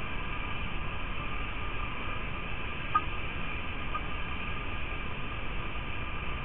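Steady hiss of rain on an outdoor webcam's microphone, with faint steady tones running through it and one short sharp tick about three seconds in.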